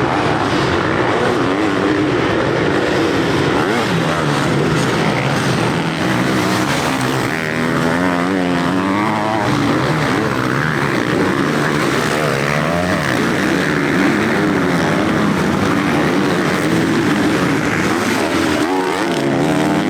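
Several motocross bikes racing, their engines repeatedly revving up and dropping back as they shift and open and close the throttle, the pitches overlapping.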